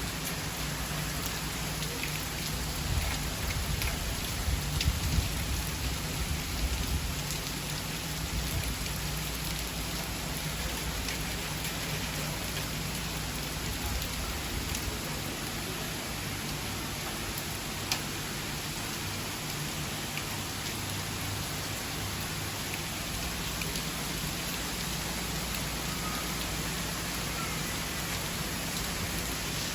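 Steady rain falling, an even hiss throughout, with a few louder low rumbles a few seconds in and a single sharp tick a little past the middle.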